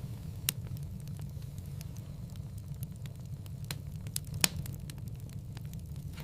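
Wood fire burning in a fireplace: a steady low rumble of flames with scattered sharp crackles and pops, the loudest about four and a half seconds in.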